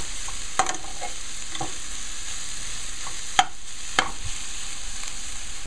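Saltfish, onions and peppers sizzling in hot oil in a frying pan as they are stirred with a slotted spatula, which scrapes and taps against the pan a few times with sharp clicks.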